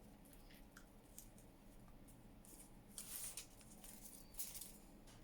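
Faint rustling of paper being handled on a journal page, with brief louder rustles about three seconds in and again a second or so later.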